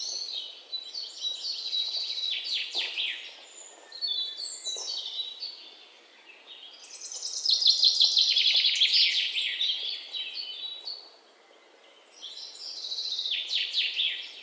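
Songbirds singing in outbursts of rapid, high chirps and trills, four phrases with short pauses between them, the longest and loudest a little past the middle.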